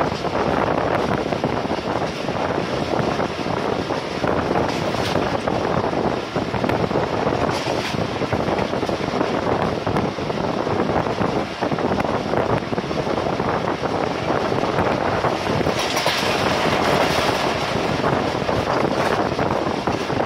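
Passenger train running at speed, heard from an open coach door: a steady rush of wheel and rail noise mixed with wind on the microphone, with a brighter hiss for a second or so late on.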